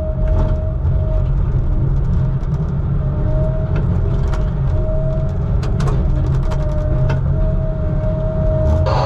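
Heavy diesel engine running steadily with a deep rumble, a constant high whine above it that breaks off briefly now and then, and scattered light rattles and clicks.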